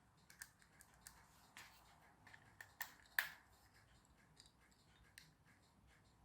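Near silence broken by scattered faint clicks and taps of small objects being handled, the sharpest single click about three seconds in.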